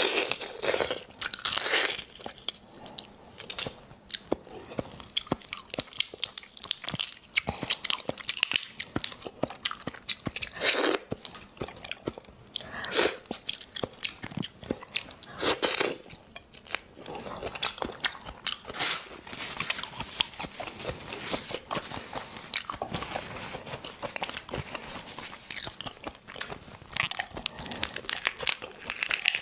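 Close-miked eating of raw botan shrimp: wet biting and chewing of the soft meat, with many irregular sharp clicks and smacks and a louder burst every few seconds.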